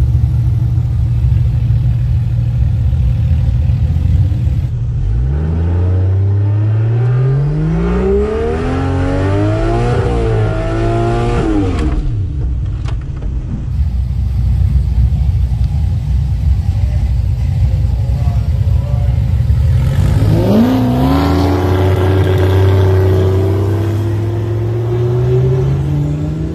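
Turbocharged 2JZ straight-six in a Holden VH Commodore drag car. It idles, then about five seconds in the revs climb for several seconds in a burnout before cutting off. About twenty seconds in it launches hard, and the pitch keeps climbing as it accelerates down the strip.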